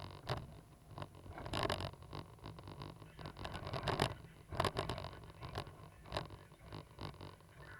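Cat 320GC excavator's diesel engine running with a steady low hum, under irregular scraping and knocking sounds.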